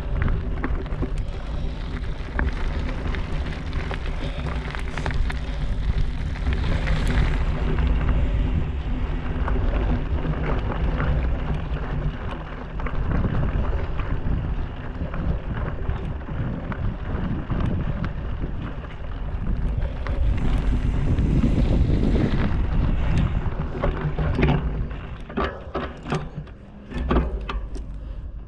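Wind buffeting the microphone and a bicycle rattling over a rough, rocky trail, with frequent clicks and knocks. Near the end the wind noise drops and separate clacks stand out.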